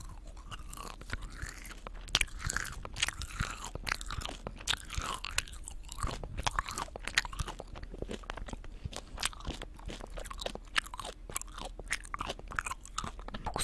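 Gummy candies chewed close to the microphone: continuous wet chewing sounds made of many quick clicks.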